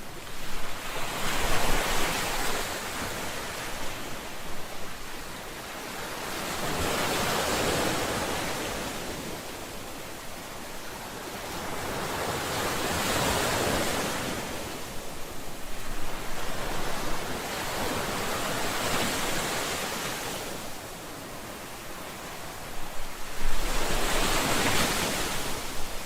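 Ocean waves breaking on a shore. Each wave swells and fades as a hiss, one arriving about every five to six seconds, with louder, crackling breakers near the start and near the end.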